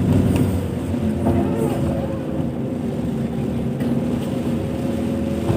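Car engine and road noise heard from inside the cabin while driving, with a steady hum and an even whine throughout.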